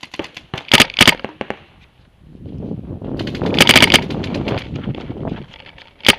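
Paintball markers firing rapid strings of shots: a quick burst of about five shots near the first second, a longer, denser string around the middle, and another burst right at the end. A rough rustling noise runs under the middle burst.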